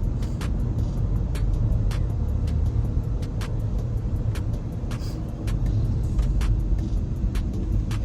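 Steady low road and tyre rumble inside a moving car's cabin, with a rapid run of faint ticks, several a second, over it.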